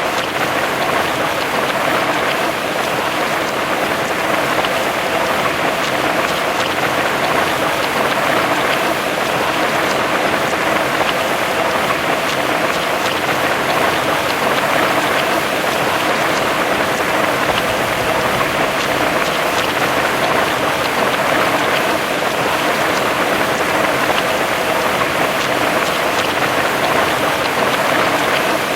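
Heavy rain falling steadily, a dense even hiss of drops with fine scattered patters.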